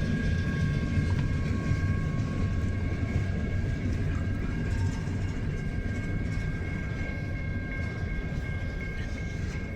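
Freight train cars rolling past with a steady low rumble, over a faint steady high-pitched whine.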